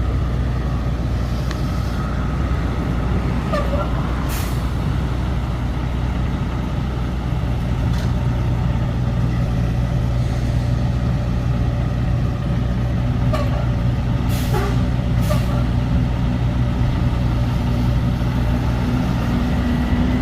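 Truck engine running with a steady low drone. A few brief sharp noises cut through, about four seconds in and twice near the middle.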